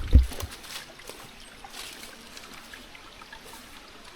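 Jungle stream trickling over rocks, with a loud low thump just after the start.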